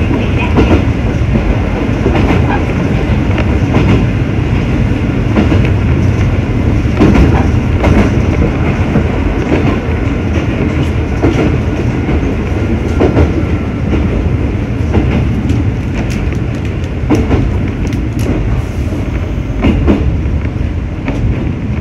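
Mizuma Railway electric train running along the track, heard from the front of the train: a steady rumble of wheels and motors with clacks over rail joints every second or two, unevenly spaced.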